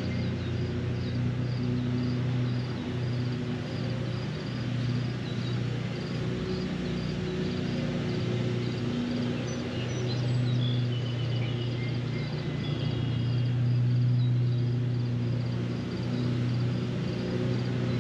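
Rainy lakeshore ambience: steady hiss of rain under a low, even drone. A faint high chirp repeats about twice a second through the first half, and a few short bird trills come in about halfway through.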